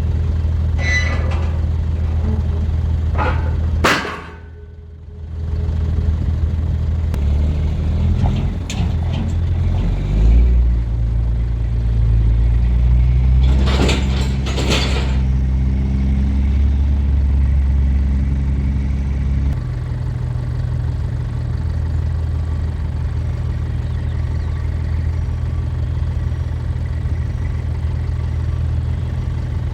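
Diesel engine of a 1999 Fermec TLK760 backhoe running steadily as the machine is driven off a trailer, with a few short clanks and squeaks, the loudest about halfway through.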